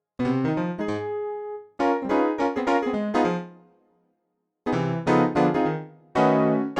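Piano patch from the MKSensation Xtreme iPad app, played as a keyboard sound module: phrases of struck chords that ring and fade, with a pause of about half a second a little past the middle before the chords resume.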